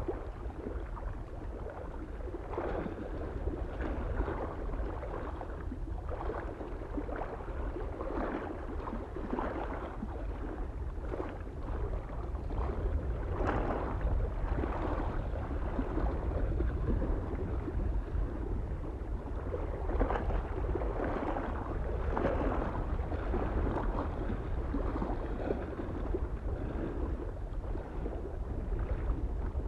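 Small waves lapping and splashing against a mountain lake shore, a soft wash every second or so. A low wind rumble runs underneath.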